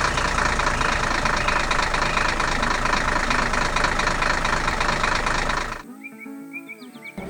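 Engine sound effect of a cartoon construction machine running with a fast, steady rattle, cutting off suddenly about six seconds in. Light music follows.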